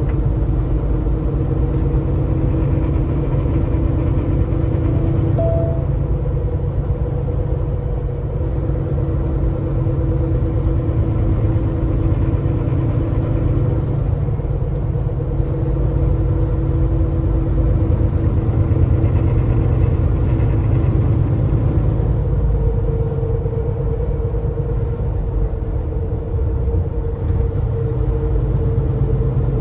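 Semi truck driving down the road: a steady engine drone with road rumble underneath, holding an even pitch with small shifts.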